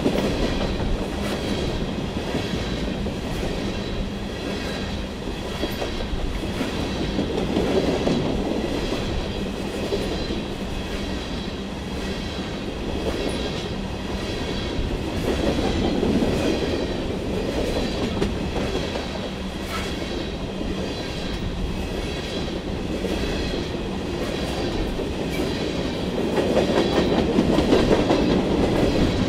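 Freight train cars rolling past, wheels clacking over rail joints in a continuous clatter that swells louder several times, most strongly near the end.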